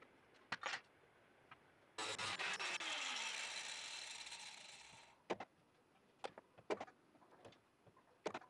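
Abrasive work on a car body panel: a rough rubbing, rasping noise starts abruptly about two seconds in and fades out over some three seconds. Single sharp knocks and taps come shortly before it and several times after it.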